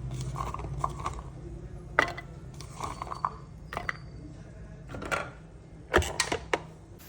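A handful of separate sharp clicks and knocks, with a quick cluster of three near the end, over a low steady hum that fades out shortly before the end.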